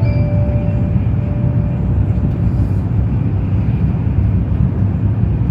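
Steady low rumble of a Shinkansen bullet train running at speed, heard from inside the passenger cabin. The last note of the onboard announcement chime fades out in the first second or so.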